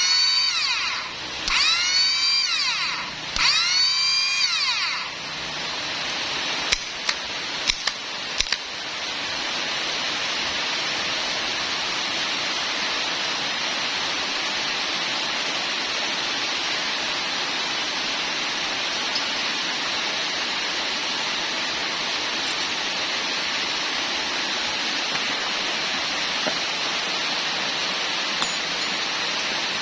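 A power tool whirs up and back down three times in quick succession, followed by a few sharp clicks, then a steady hiss.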